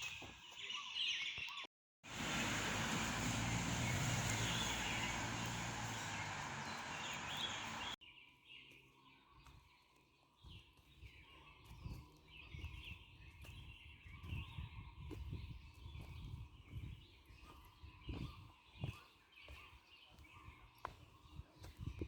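Birds chirping and calling in woodland, broken by a few seconds of loud rushing noise that starts after a short cut and stops abruptly, after which the birdsong goes on more faintly with scattered low thuds.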